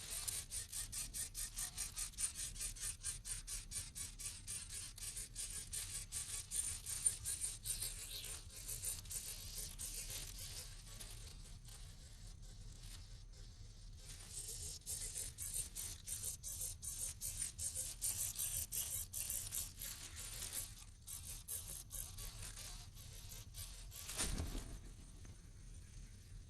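Nestling birds begging: rapid, high-pitched cheeping repeated several times a second in two long bouts, fading between them. A brief thump near the end.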